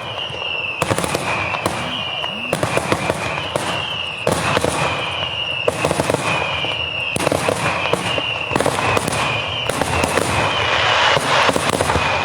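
Daytime fireworks barrage: a dense, unbroken volley of rapid bangs and crackling firecracker reports. Behind it a high two-note tone repeats at an even pace.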